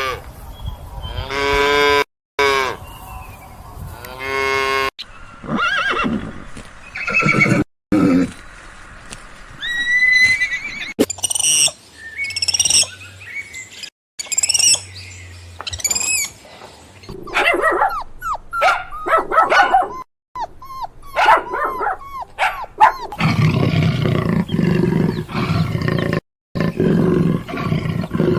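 A series of different animal calls cut one after another: pitched calls in the first few seconds, high rising and falling chirps around the middle, and a low, rough call over the last five seconds.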